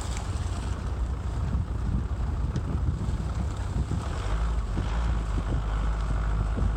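Heavy wind buffeting on the microphone over a steady low rumble of a motorcycle running, with the rumble growing steadier about four seconds in.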